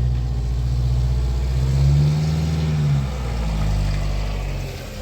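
Car engine running and revving, its pitch rising to a peak about two seconds in and then dropping back.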